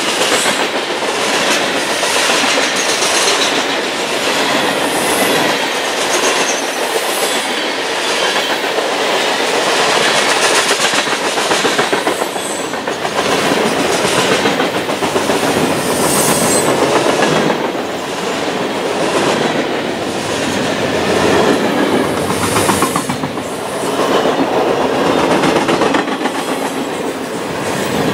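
Freight cars of a passing train rolling by close at hand: a steady rumble of steel wheels on rail with a rhythmic clickety-clack as the wheel sets pass. Covered hoppers go by, then centerbeam flatcars loaded with lumber.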